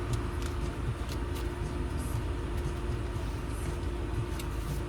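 Steady low rumble of an SUV's engine and cabin, heard from inside the car, with a faint steady hum over it and a few light ticks.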